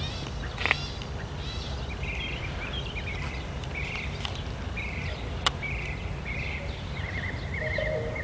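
Birds calling: a short chirping call repeated about every half second to a second, then a warbling trill near the end, over a steady low background rumble, with two sharp clicks.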